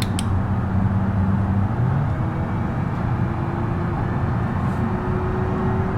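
Minivan engine running with a steady hum, its note shifting about two seconds in. A single sharp click comes right at the start.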